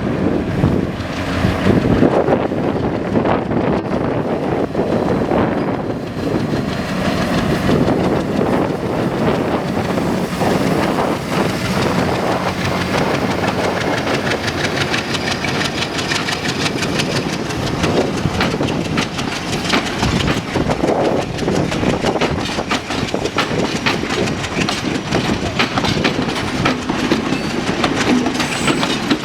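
A diesel-hauled passenger train (M8/WDM-2 locomotive) runs past at close range, its wheels clattering steadily over the rail joints with a dense stream of clicks.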